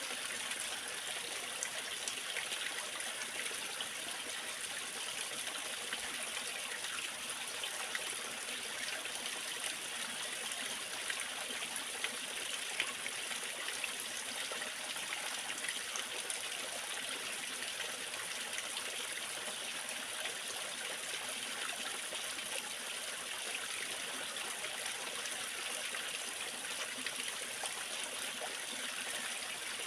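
Waterfall water splashing and trickling steadily, an even rushing hiss with no let-up.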